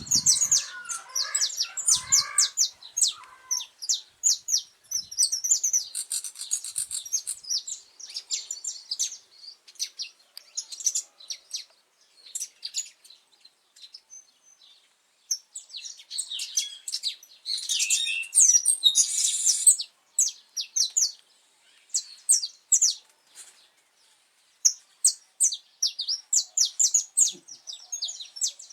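Saffron finch singing: runs of quick, high chirping notes in phrases separated by short pauses.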